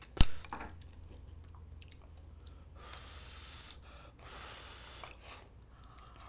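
A person chewing food close to the microphone. There is one sharp click just after the start, and two short hissing sounds in the middle.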